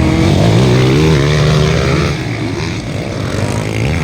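Motocross dirt bike engines revving hard as the bikes race, the pitch climbing and wavering over the first couple of seconds, then a little quieter.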